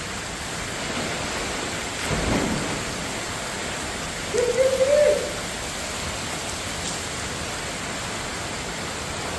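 Steady rain falling. About two seconds in comes a brief low rumble. A little after four seconds there is a short, hoot-like tone lasting under a second, which is the loudest sound.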